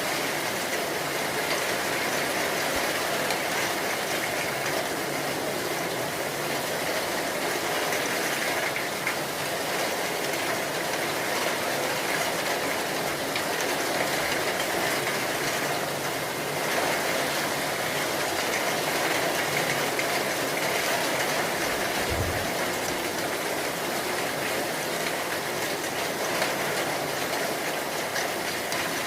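Heavy rain falling steadily, a dense even hiss. There is a brief low thump about three quarters of the way through.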